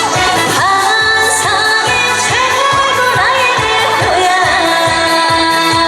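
A Korean pop song playing: a sung melody with gliding, held notes over a steady beat.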